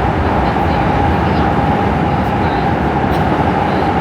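Prague metro train running at speed between stations, heard from inside the car: a steady rumble of wheels on rail with a constant whine held over it.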